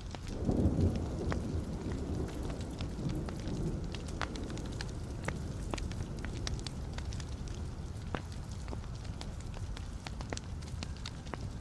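Wood fire in a fireplace crackling, with sharp pops scattered throughout. About half a second in, a low rumble of the flames swells up and fades away over the next few seconds.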